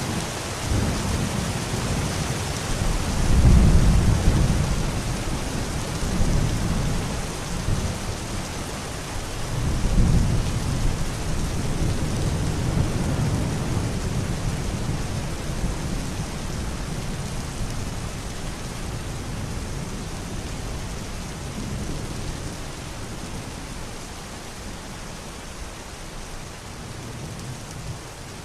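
Steady rain with low rolling rumbles of thunder, the strongest about three to four seconds in and again about ten seconds in. The rain grows gradually softer toward the end.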